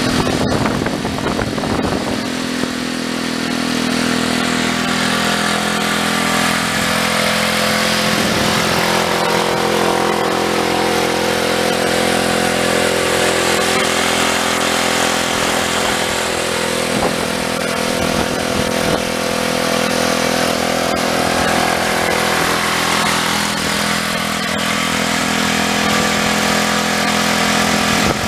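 Predator 9000-watt generator's 420 cc single-cylinder engine running steadily on gas from a small charcoal gasifier.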